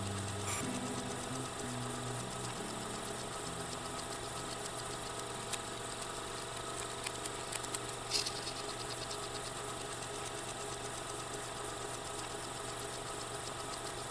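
A steady machine-like hum with a few faint clicks. Some low tones shift and fade out in the first two or three seconds.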